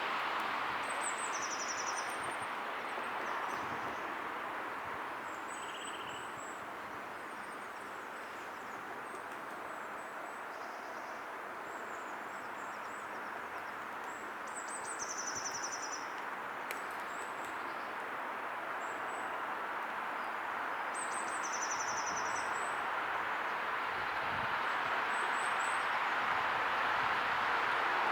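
Steady rushing outdoor background noise that slowly swells and fades, with a small bird's high, chirpy song phrase repeating a few times over it. No clear run of pecking taps stands out.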